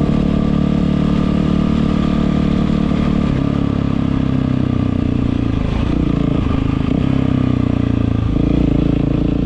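Yamaha WR450F's single-cylinder four-stroke engine running steadily through an Akrapovič exhaust. Its note shifts slightly about three seconds in and settles back a little past eight seconds.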